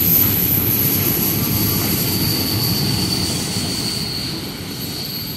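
Freight train passing on the adjacent freight line: a steady low rumble of rolling wagons that slowly fades as the train draws away. A high steady whine comes in about two seconds in.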